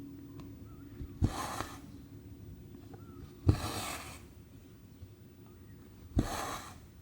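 Cross-stitch needle pushed through 14-count Aida fabric and cotton thread drawn through behind it, three times about every two and a half seconds: each a short tap followed by a half-second rasp of thread.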